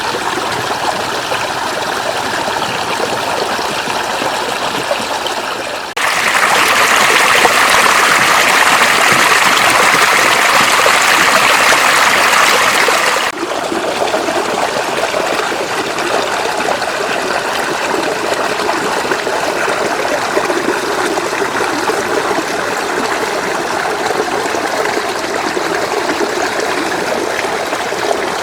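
Shallow floodwater running and trickling steadily. A louder, hissier stretch of rushing water starts abruptly about six seconds in and stops just as abruptly about seven seconds later.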